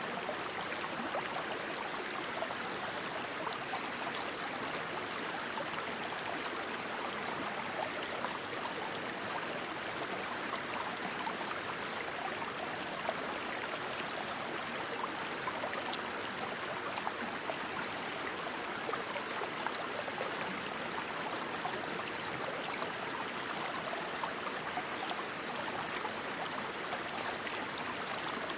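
Rushing stream water running steadily. Short high chirps sound over it every second or so, with a quick trill about 7 seconds in and another near the end.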